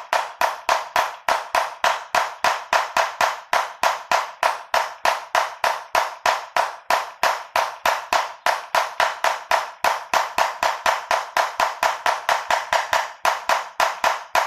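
A rapid, even series of sharp strikes, about five a second, each ringing briefly, that stops just after the end.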